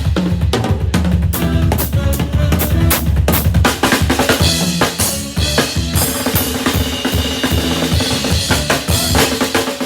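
Drum kit played busily, with kick drum, snare and rimshots to the fore, over a band's instrumental passage with no vocals.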